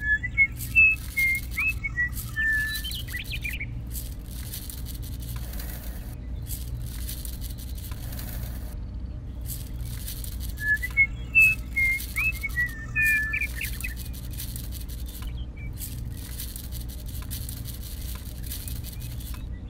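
Small birds chirping and whistling in two quick bursts about ten seconds apart, over a steady low hum.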